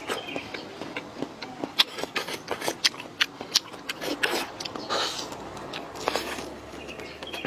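A person eating up close: chewing with many short, sharp mouth clicks and smacks, and a few softer noisy smears in between.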